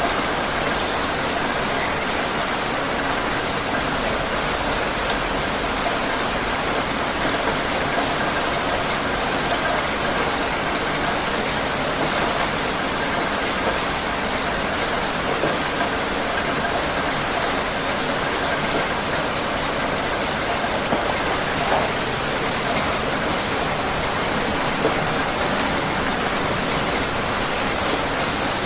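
Heavy rain falling steadily, an even hiss of drops on surfaces with scattered faint patters.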